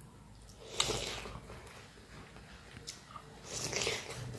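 Close-up chewing and lip smacking of a mouthful of pork curry and rice, with two louder wet smacks, about a second in and again near the end.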